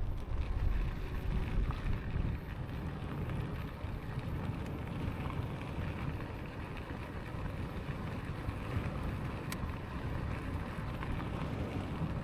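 Wind buffeting the microphone with a steady low rumble of tyres and road while riding a Lankeleisi X2000 e-bike along a cycle path. There is a single sharp click about nine and a half seconds in.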